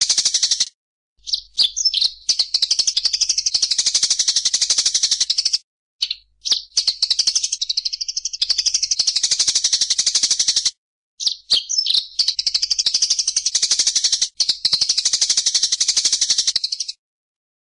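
Small songbird singing a fast, high rattling trill in three long runs of about four to five seconds each, each run opening with a few separate sharper notes, with short pauses between.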